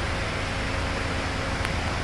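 Hyundai Starex van engine idling: a steady low rumble under an even hiss, with one faint tick near the end.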